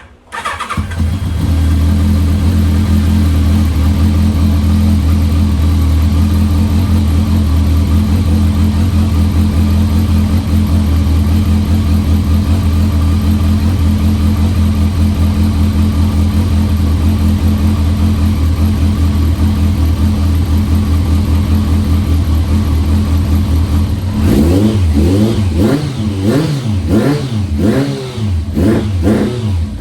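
Kawasaki ZRX1200R's inline-four engine catching right at the start after a long time unused, then idling steadily. For the last six seconds or so it is revved in a series of quick throttle blips.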